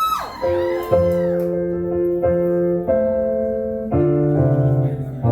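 Piano played in slow, sustained chords, each held and ringing before the next is struck, as the opening of a ballad.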